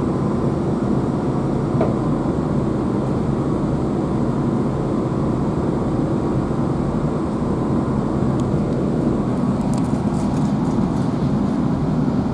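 Steady running noise heard inside the saloon of a GWR Class 165 diesel multiple unit on the move: a deep, even rumble from the underfloor diesel engine and the wheels on the rails. A few faint light clicks or rattles come in between about 8 and 11 seconds in.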